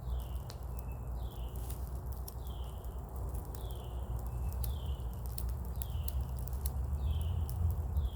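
A bird repeating a short, downward-slurred call about once a second, over a low rumble and scattered faint clicks.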